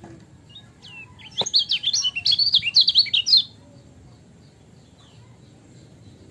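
Kecial kuning (a white-eye) singing a fast, loud burst of high chirping notes for about two seconds, starting just over a second in, after a few faint single chirps.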